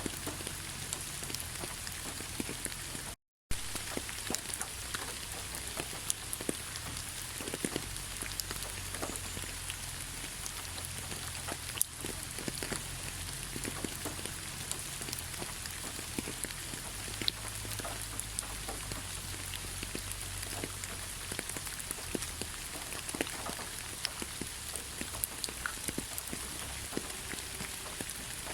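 Heavy rain falling: a steady hiss with many separate drops pattering and tapping through it. The sound cuts out completely for a split second about three seconds in, then resumes.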